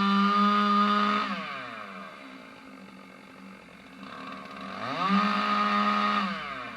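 Stihl MS 661 two-stroke chainsaw at full throttle. It drops back to idle about a second in, revs up again about five seconds in for a second or so, then falls off once more near the end.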